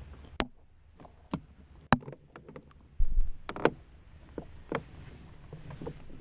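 Handling noises on a fishing kayak: scattered clicks and knocks, with a heavier low thump about three seconds in.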